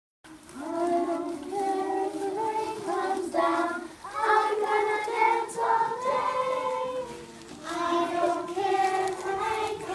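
A group of children singing a song together in unison, with short breaks between phrases.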